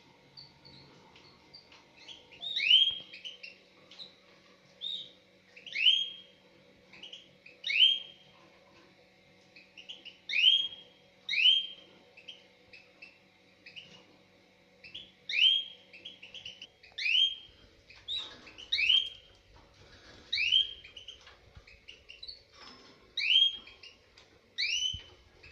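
Mosaic canaries in a breeding cage giving loud short chirping calls, each sweeping downward in pitch. About a dozen of them come at irregular intervals of one to three seconds, with softer chirps between.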